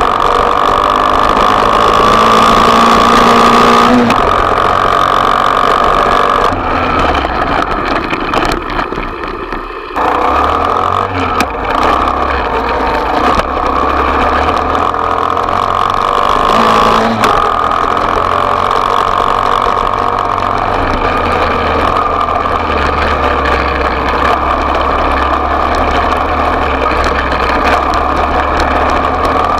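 Small off-road motorbike engine running at high revs with a steady, buzzing note; it eases off for a few seconds around eight seconds in, then picks up sharply again.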